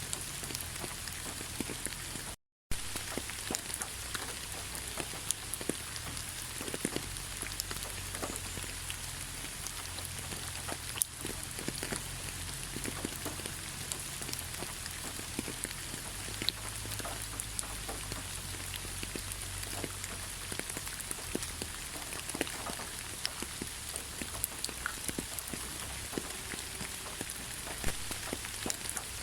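Steady rain falling, with scattered drops tapping sharply on a surface. The sound cuts out completely for a moment about two and a half seconds in.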